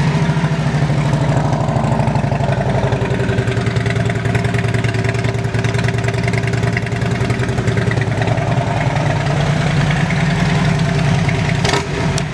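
Harley-Davidson Road King's V-twin engine idling through aftermarket Rinehart exhaust pipes, loud and steady with a deep, fast pulse.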